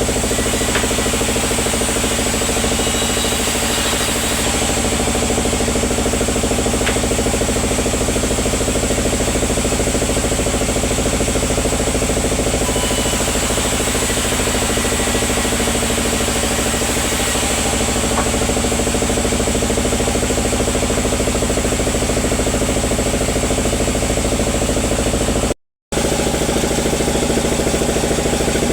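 Sawmill's engine running steadily at a constant speed. The sound drops out completely for a moment near the end.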